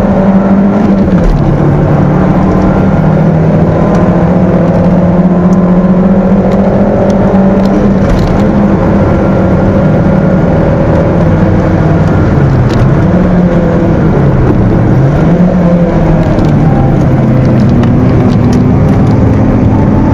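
Stock Peugeot 206 1.6-litre four-cylinder engine under hard driving, heard loud from inside the cabin. It holds high revs, steps down in pitch about a second in, dips twice and climbs back past the middle, and rises again near the end.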